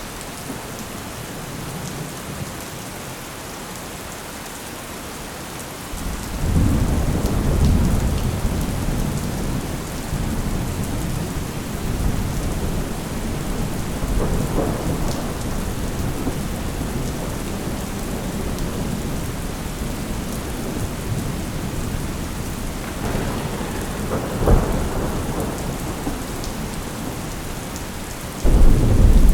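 Thunderstorm: steady rain with thunder. A long, low rumble rolls in about six seconds in, a short sharp crack comes past the middle, and another loud rumble starts near the end.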